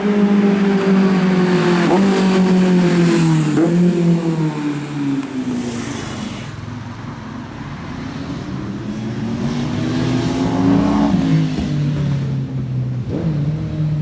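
Motorcycle engine running hard, its pitch falling over the first few seconds, then quieter before rising again and dropping off near the end.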